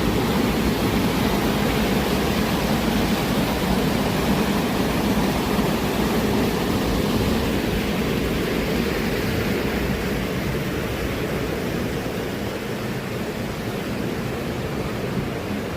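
Steady rush of flowing water, with most of the sound low and full. It grows slightly quieter in the second half.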